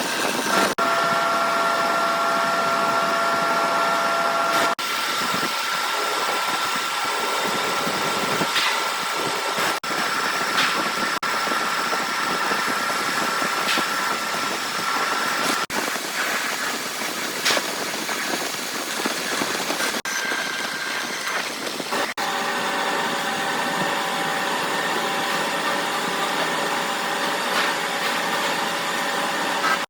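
Workshop machinery running steadily with a whining hum over a hiss. The sound changes abruptly several times, as from one machine or cut to the next.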